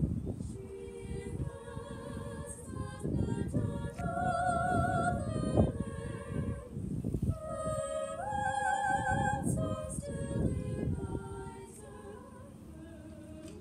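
A small choir singing a passage together in held notes with vibrato, in several parts. The chord rises to a higher sustained note about eight seconds in, and the singing grows softer near the end.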